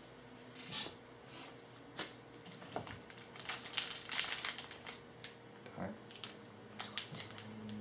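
Trading-card pack wrapper crinkling and cards rustling as a pack is opened and handled: a run of short rustles and clicks, busiest in the middle.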